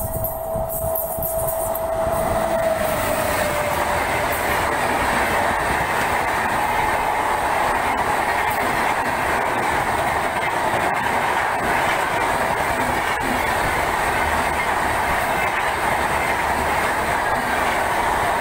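Express train of LHB coaches running through the station at speed. The rumble of wheels on rails builds over the first two seconds and then holds steady as the coaches pass.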